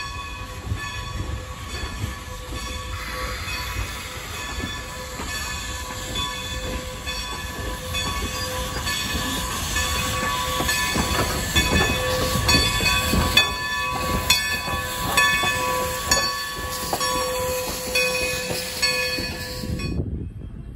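Steam-hauled passenger train rolling past, its wheels clicking rhythmically over the rail joints under a rumble, with several steady high-pitched tones held throughout. The sound cuts off abruptly near the end.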